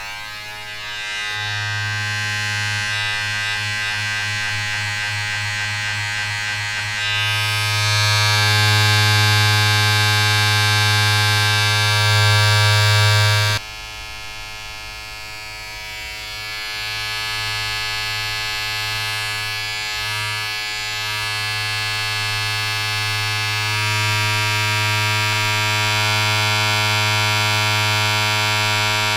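Steady electric buzz of a small mains-powered appliance: a low hum with a bright hiss above it. It grows louder about seven seconds in, drops suddenly about halfway through, then builds up again.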